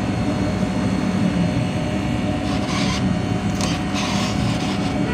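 A steady low machine hum, with a few short rubbing or scraping noises about two and a half to four and a half seconds in.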